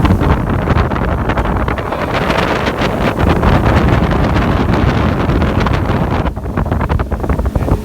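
Loud wind buffeting the microphone on a moving motorboat, with the boat's engine and water noise underneath; the buffeting eases for a moment about six seconds in.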